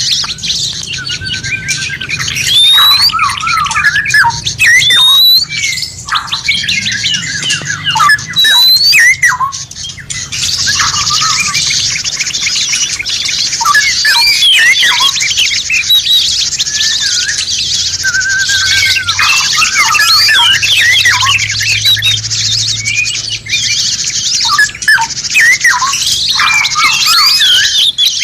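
Several songbirds singing at once: quick chirps and rising whistles that thicken, about ten seconds in, into a dense, continuous high twittering.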